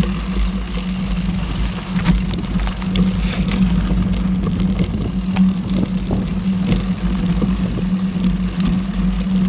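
Mountain bike being ridden along a dirt trail: a steady rumble from the tyres and bike, with many scattered clicks and rattles.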